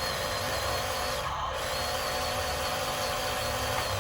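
Small electric motors and gearboxes of 1:16-scale RC construction machines running, a steady whine with a few wavering tones over a low rumble.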